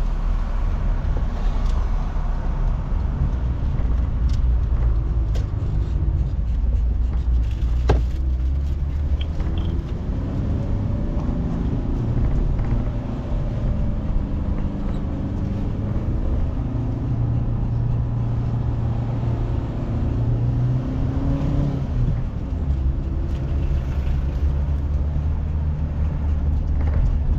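Inside a moving car: the engine running under steady tyre and road rumble, its note rising and falling with speed, with one sharp click about eight seconds in.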